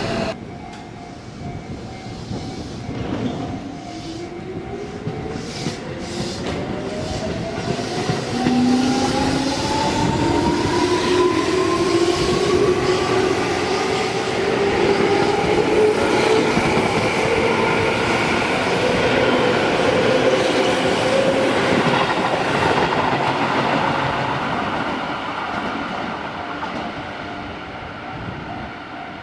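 Electric commuter train pulling away, its traction-motor whine rising steadily in pitch for about a dozen seconds before levelling off, with wheel clicks over rail joints early on. It grows louder, holds, then fades as the train moves off.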